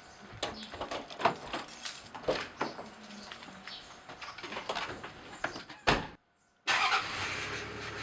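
Scattered clicks and knocks, with a sharp thud about six seconds in. After a short break a car engine starts and runs steadily, likely the uploader's Toyota Land Cruiser 70.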